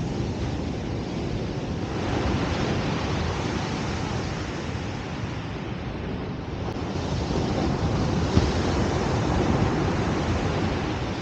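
Ocean surf with wind buffeting the microphone: a steady rushing noise that swells about two seconds in and again later on.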